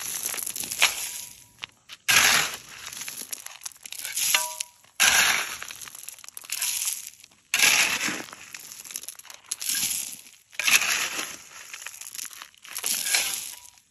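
A hand tool repeatedly scraping and digging gravel and broken asphalt out of a trench cut in the pavement, about one gritty, crunching stroke a second, with a faint clink among the stones near the middle.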